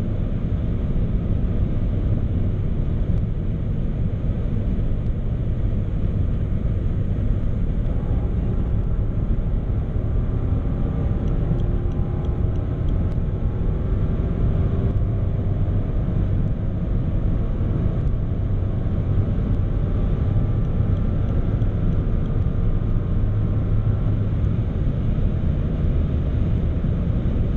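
Rolls-Royce Dawn's twin-turbo V12 running at high road speed under a steady low rumble of road and wind noise. A faint engine tone rises slowly from about eight seconds in until about fifteen seconds in.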